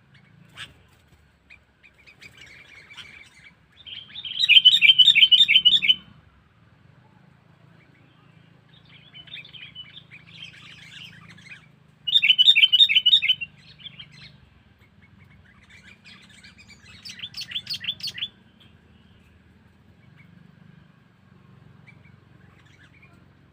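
Sooty-headed bulbul (kutilang) decoy bird calling: three loud bursts of fast repeated chattering notes, about four, twelve and seventeen seconds in, with softer chatter between them.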